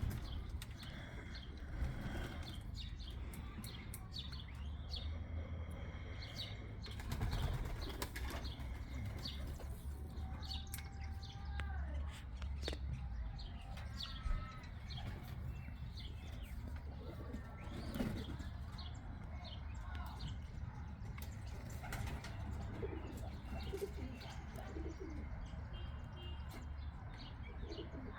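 Pigeons flapping their wings, with many short wing claps, and now and then brief bird chirps.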